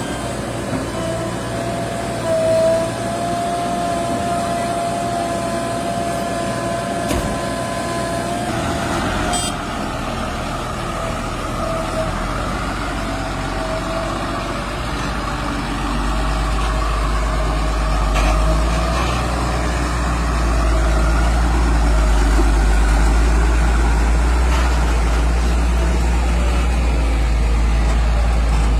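Heavy diesel machinery running, with a steady whine held for the first several seconds. About halfway through, a deeper, louder engine rumble takes over, as if one of the engines is put under load.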